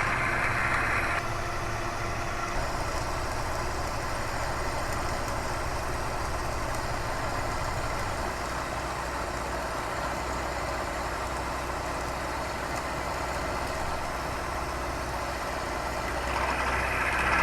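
Bridgeport milling machine running, its end mill cutting steadily through a metal block: a continuous machine drone with cutting hiss. The sound is brighter and harsher for the first second or so and again near the end.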